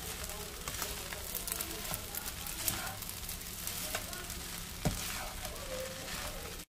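Food sizzling and crackling as it fries in a hot pan, with scattered sharp ticks and scrapes from stirring; it cuts off abruptly just before the end.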